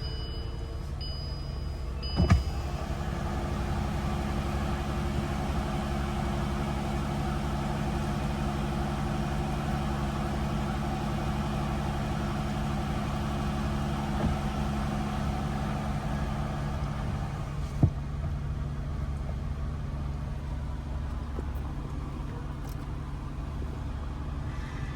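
2014 Bentley Flying Spur's engine cold-started: a couple of dashboard chime beeps, then a brief start about two seconds in. The engine settles into a steady, fast cold idle, which is normal for this car. A click comes about 18 seconds in, and the idle note changes slightly after it.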